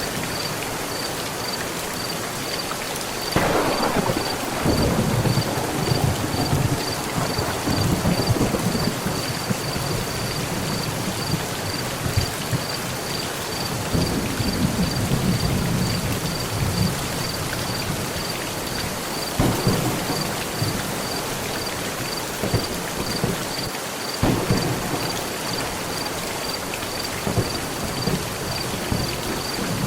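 Steady heavy rain on a metal roof, with rolling thunder: a sharp crack a few seconds in that rumbles on for several seconds, another low rumble midway, and a second crack later. A faint high chirp repeats about twice a second.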